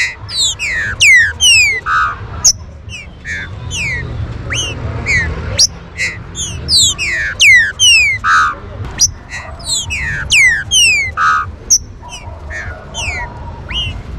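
Several green-winged saltators (trinca-ferro) calling over one another: a dense run of sharp, quick downward-sweeping whistled notes, with a low steady rumble underneath.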